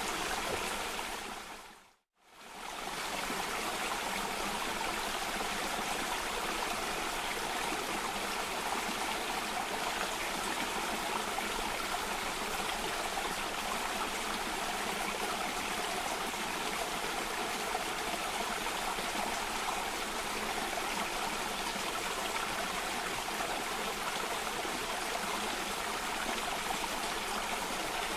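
Steady rushing and trickling of water in a cascading stream. About two seconds in, it fades briefly to silence and comes straight back in, where the looped recording restarts.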